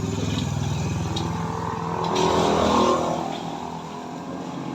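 A motor vehicle's engine running, growing louder to a peak about two seconds in and then fading, as if passing by.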